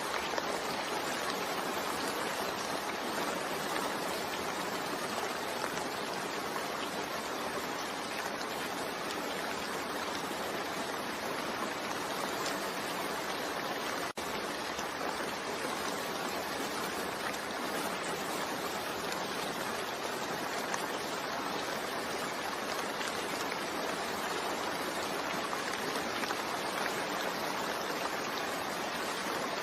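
Steady rain falling, an even dense hiss with no single drops or other sounds standing out. The sound cuts out for a split second about halfway through.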